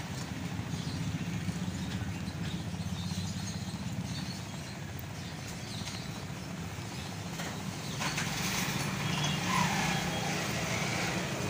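Steady low engine-like hum with background noise, slightly busier from about eight seconds in.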